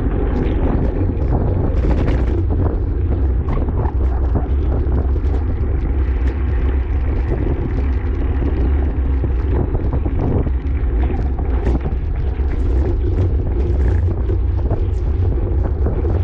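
Wind buffeting the microphone of an action camera on a racing bicycle at speed: a steady, loud low rumble with a hiss above it and scattered sharp clicks and rattles.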